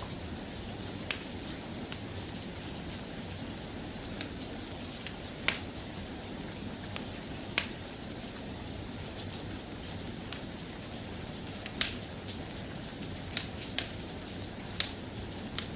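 Soft, steady rain, a continuous even hiss, with scattered sharp ticks and pops coming irregularly about once a second.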